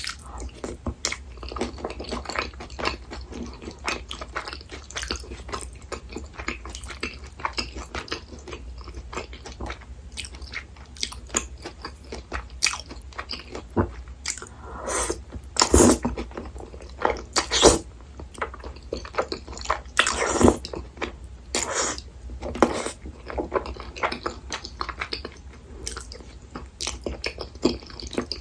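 Close-miked eating sounds: a person chewing and biting food in a steady run of small wet clicks and smacks, with a few louder, longer bursts about halfway through and again a few seconds later.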